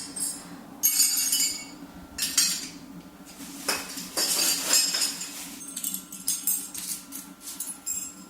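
Irregular metallic clinking and clattering, like cutlery or dishes being knocked and handled, in a run of uneven bursts. A steady low hum runs underneath.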